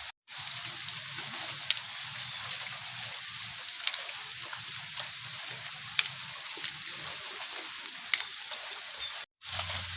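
Outdoor rain ambience: a steady hiss of light rain with scattered sharp drips, and runs of short high chirps repeating a few times a second. The sound cuts out completely twice, just after the start and near the end.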